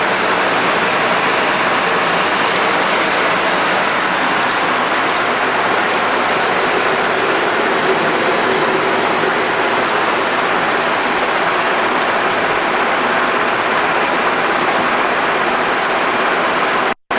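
Steady cockpit noise of a Boeing 737-200 in the climb: a constant rush of airflow over the nose blended with the hum of its Pratt & Whitney JT8D turbofans. The sound drops out abruptly for a moment near the end.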